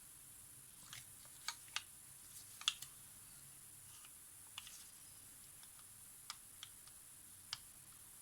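Small, sharp clicks and taps of tools and small parts being handled, about a dozen at irregular intervals. The loudest comes a little under three seconds in.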